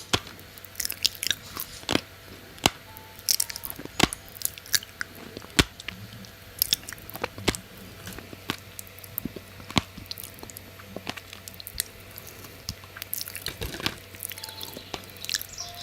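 Someone biting and chewing crunchy food close to the microphone, with irregular crisp crunches and clicks.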